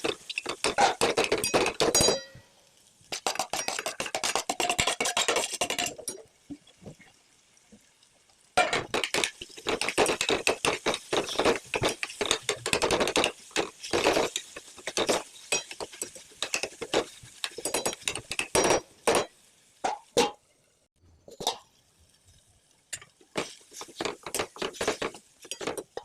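A spoon clinking and scraping against cookware in quick repeated strokes, in several runs with short pauses between them; the longest run is in the middle.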